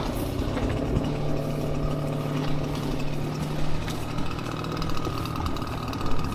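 Engine of a bucket loader running steadily, with a few clanks and knocks.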